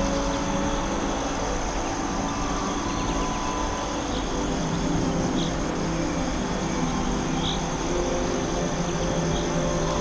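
Forest ambience: a steady, even background hiss with a constant high insect-like buzz. Low sustained tones run underneath, and a few brief high bird chirps come in the second half.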